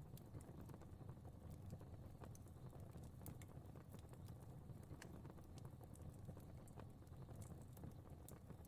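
Fireplace fire crackling faintly: scattered sharp pops and ticks over a low, steady rumble.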